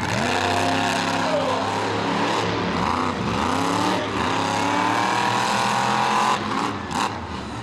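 Monster truck engine revving hard, its pitch rising and falling several times, then easing off near the end, with a short sharp knock shortly before the end.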